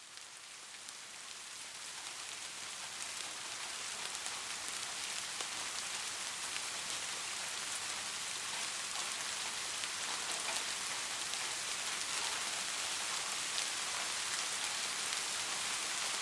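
Steady rain falling, an even hiss of rainfall with scattered individual drop ticks. It fades in from near silence over the first few seconds, then holds steady.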